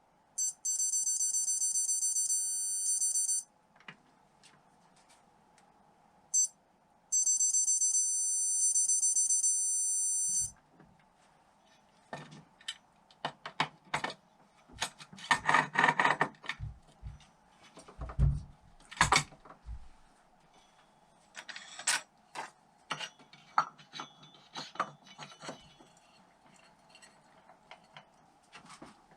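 A digital torque wrench's electronic beeper sounds short beeps, then a steady tone about three seconds long. This happens twice, the tone marking the set torque being reached. After that, metal tools and engine parts click and knock, with a few heavier knocks in the middle.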